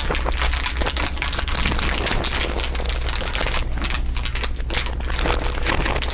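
Several overlaid layers of crinkly material being crumpled and handled: a dense, continuous crackle, with a steady low hum underneath.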